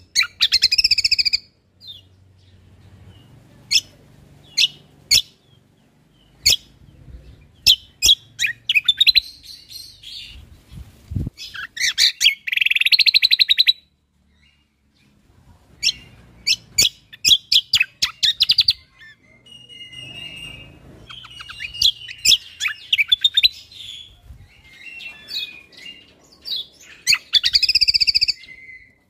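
Cucak kombo (kecial kombok) songbird singing: loud, sharp single chip notes mixed with fast, buzzy high trills that come in bursts of a second or two, with a brief pause about halfway through.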